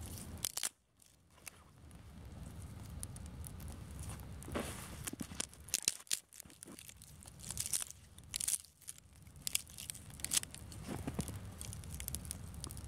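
Small campfire of twigs crackling, with irregular sharp snaps and tearing sounds over a steady low wind rumble on the microphone.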